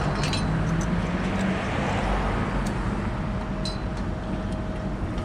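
Bucket truck's engine running steadily, with a faint steady whine above it and a few light clicks.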